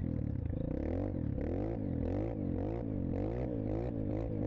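Dirt bike engine running under way, its revs swinging up and down about two or three times a second in a quick, regular rise and fall.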